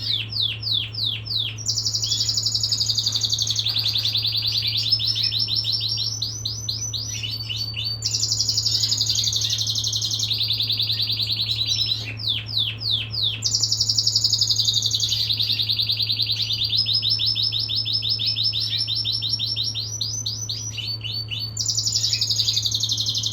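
Male canary singing one long, unbroken song: phrase after phrase of rapid trills and repeated sweeping notes, each kind held for a few seconds before it switches to the next. A steady low hum runs underneath.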